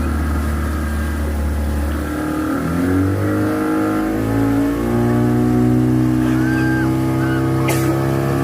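Motorboat engine running and speeding up in two steps, about two and a half and five seconds in, its pitch rising each time. A short click near the end.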